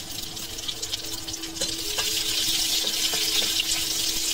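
Chopped onions and green chillies sizzling in hot oil in a kadai, the sizzle growing louder about halfway through, with a few light spatula scrapes as they are stirred.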